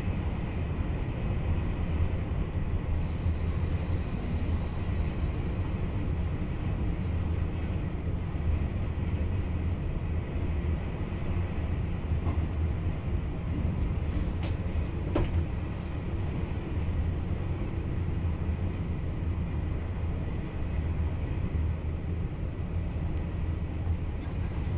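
VIRM double-deck electric train running at speed, heard from inside the driver's cab: a steady low rumble of wheels on the track. A brief hiss comes about three seconds in, and a few clicks come about halfway through.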